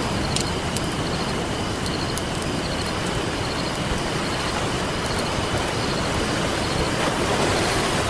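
Ocean waves washing on the shore in a steady rush, with a wood campfire crackling over it in scattered sharp pops. The surf swells slightly near the end.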